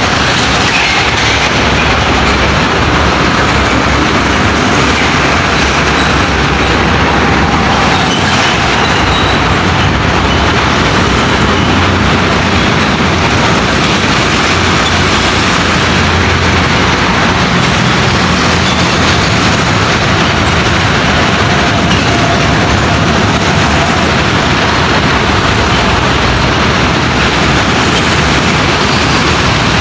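Loud, steady road traffic noise from heavy trucks and other vehicles passing close by, with engine and tyre noise running unbroken.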